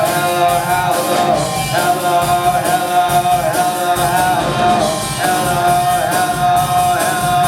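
A live rock band playing: drum kit keeping a steady beat under electric guitars and bass, with a repeating melody line that bends in pitch.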